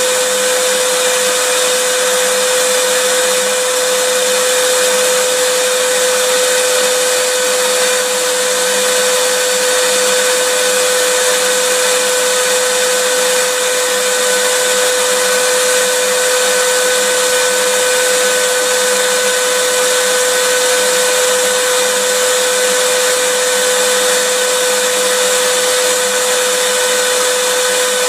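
Vacuum cleaner motor running steadily, a constant rushing whine with a strong hum-like tone and no change in speed or pitch.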